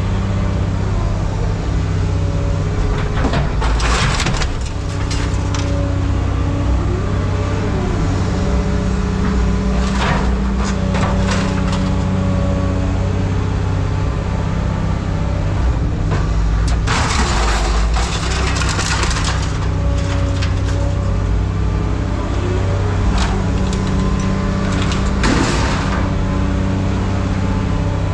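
A heavy machine's engine running steadily, with scrap metal crashing and scraping four times as the pile is worked.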